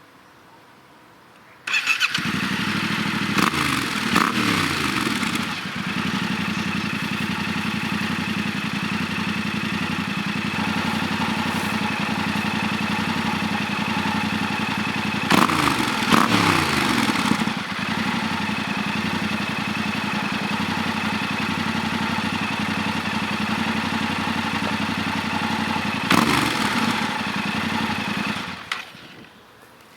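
Yamaha Ténéré 700 parallel-twin engine breathing through an FF by Fresco Dakar exhaust in the low position: it starts about two seconds in and settles to a steady idle. It is revved with short throttle blips three times, two quick ones early, a longer one in the middle and one near the end, and is switched off shortly before the end.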